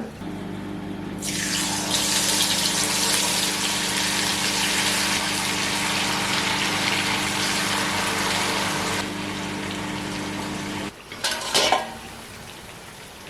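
Microwave oven running with a steady electrical hum, which cuts off suddenly about eleven seconds in, followed by a brief clatter. A loud rushing hiss, like water running from a tap, sounds over it for most of the first nine seconds.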